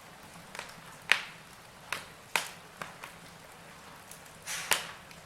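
Burning logs in a wood fire crackling: irregular sharp pops and snaps, the loudest about a second in and near the end, over a faint steady hiss.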